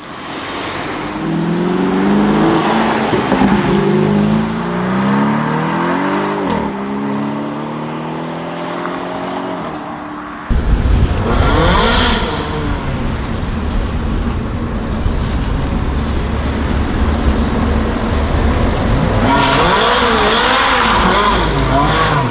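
Modified car engines revving and accelerating, their pitch rising and falling with each rev. About ten seconds in the sound jumps suddenly to a louder, deeper engine rumble, and the revs waver up and down again near the end.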